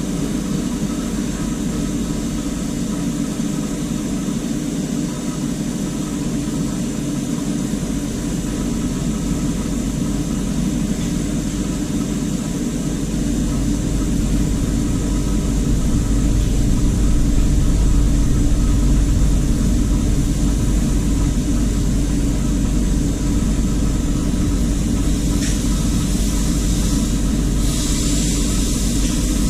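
Brazing torch flame burning steadily on air-conditioner copper pipe, a continuous rushing hiss with a low rumble that grows somewhat louder about halfway through.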